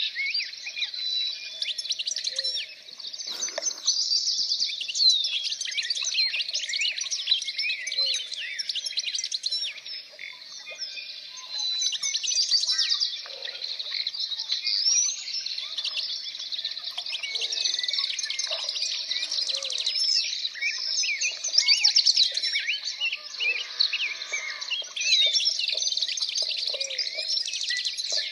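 Many small birds singing and chirping at once, a dense chorus of rapid, high twittering calls and short whistles that overlap continuously.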